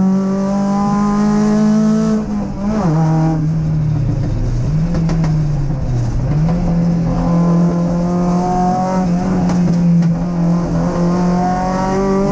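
Triumph TR7 race car's 16-valve Sprint four-cylinder engine, heard from inside the stripped cabin at racing pace. The engine note drops about two seconds in, wavers low for a couple of seconds, then climbs steadily as the car accelerates toward the end.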